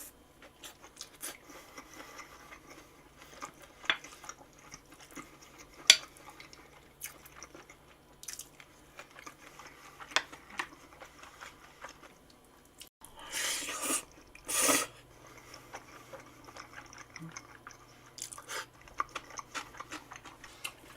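Close-up eating sounds: chewing and crunching food, with scattered crackles and clicks. Two louder, longer noisy bursts come about thirteen and fourteen and a half seconds in.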